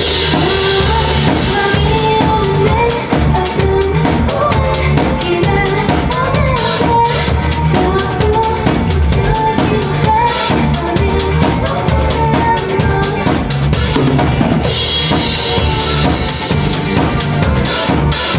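Live band playing loudly, with a drum kit driving a steady beat on bass drum and snare under pitched instruments.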